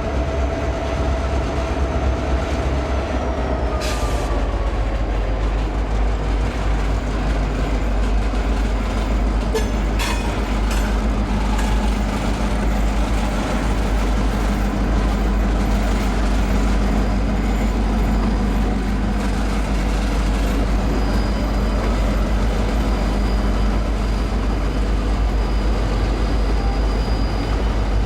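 Iowa Northern freight train rolling past: a steady, loud rumble of rail cars over the track, with a faint whine that falls in pitch a few seconds in and a few sharp clicks near the middle.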